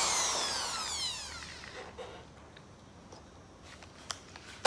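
Power drill's motor winding down after the trigger is let go, its whine falling in pitch and fading over the first second and a half. Then a few light clicks and a sharp knock near the end.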